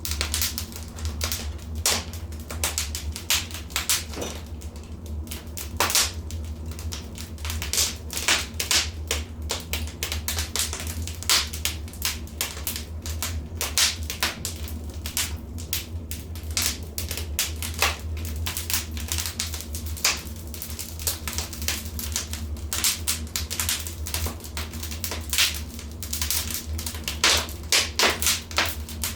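Fire burning in a fireplace, crackling with many irregular sharp pops and snaps, over a low steady hum.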